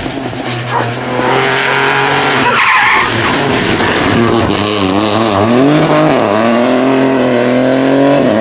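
Rally car engine driven hard on a stage, its revs rising and falling sharply through gear changes and braking, then climbing again near the end.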